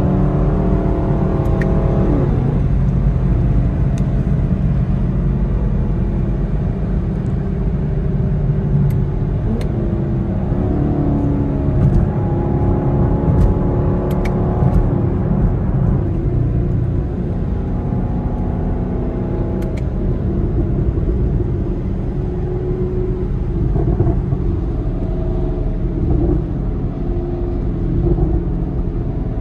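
Camaro SS V8 and tyre noise heard inside the closed cabin while cruising on a wet highway: a steady low drone whose engine pitch shifts a little with speed.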